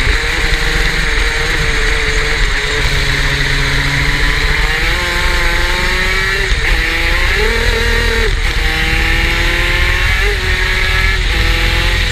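Superkart's two-stroke racing engine running hard, its pitch climbing and then dropping sharply several times, under a steady rush of noise.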